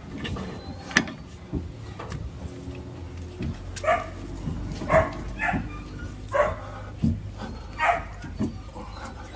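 A dog barking several short times, mixed with occasional sharp metal knocks.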